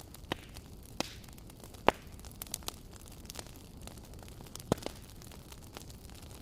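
Wood fire crackling: sharp, irregular pops over a steady low hiss of burning, the loudest pop about two seconds in and another strong one a little past the middle.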